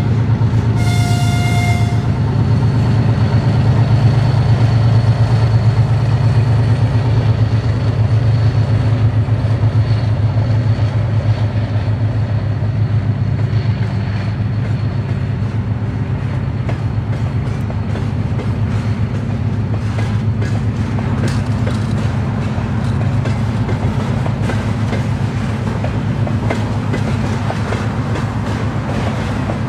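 3TE10M diesel locomotive hauling a freight train: a short horn blast about a second in, then the steady low drone of its two-stroke opposed-piston diesel engines as it passes. From about halfway on, the wagon wheels clatter more and more over the rail joints.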